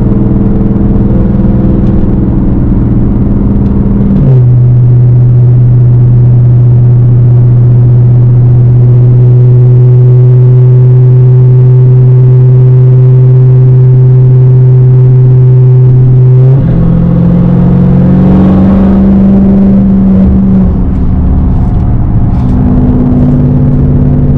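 Dodge Hellcat's supercharged 6.2-litre V8 running loud through a straight-piped exhaust with a steady drone. About four seconds in the pitch drops and holds level for a long stretch, then rises and varies again in the last several seconds.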